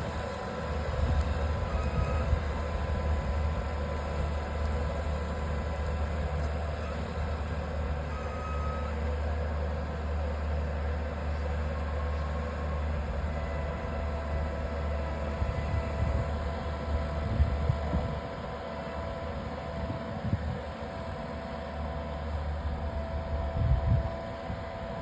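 Swarm Farm robotic spraying tractor's engine running steadily as the machine works across the paddock. The sound drops slightly in level about two-thirds of the way through.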